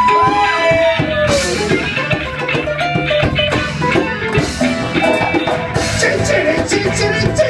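Live rock band playing: guitar over a drum kit.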